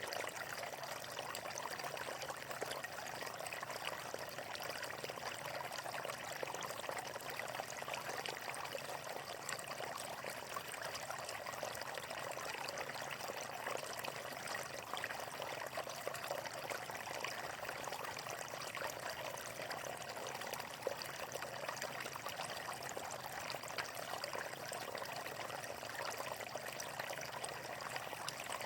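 Water flowing steadily, an even, unbroken rush.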